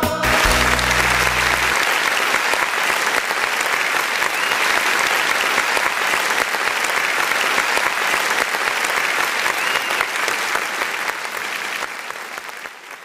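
Audience applauding, a dense steady clapping of many hands, over the last low note of the music dying away in the first two seconds; the applause fades out near the end.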